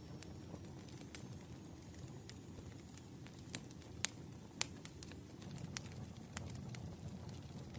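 Wood fire burning, a low steady rumble with irregular sharp crackles and pops.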